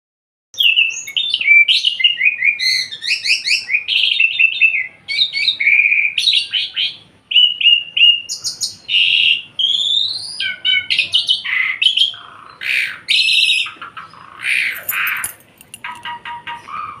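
Javan pied starling (jalak suren) in full song: a long, varied stream of whistles, quick chattering strings and rising and falling glides, starting about half a second in.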